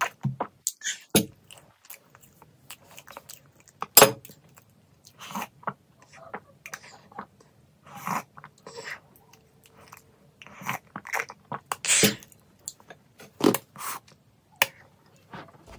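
Close-miked chewing of chicken momo dumplings: irregular wet mouth clicks and bites with no steady rhythm, a handful of them sharper and louder than the rest.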